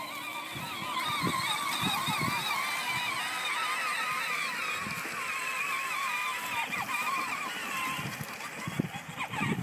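Child's John Deere ride-on toy tractor driving along, its electric drive motor and gearbox giving a steady whine that wavers slightly in pitch, fading out about eight seconds in.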